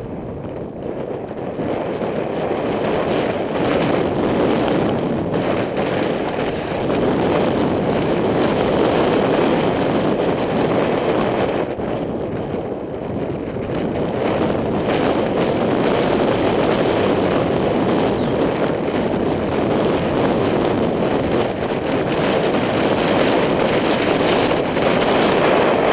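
Wind rushing over the microphone during a bicycle ride: a loud, steady rushing noise that eases a little a couple of times and then picks up again.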